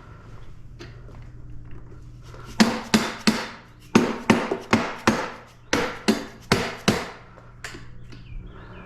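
A hammer striking repeatedly, about a dozen sharp blows in uneven groups over some four seconds.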